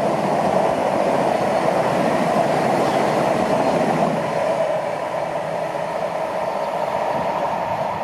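A train running along the line past the platform: a steady noise of wheels on rails that eases slightly about halfway through.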